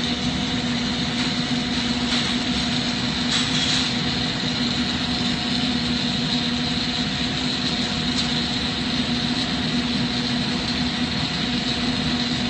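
Steady roar and hum of a lampworking hot shop: glassworking torches and shop ventilation running, with a couple of faint clicks.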